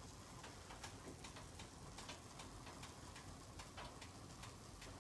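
Faint, irregular crackling of a wood fire burning inside a Jøtul F3 cast-iron wood stove: sharp pops and ticks at uneven intervals, several a second.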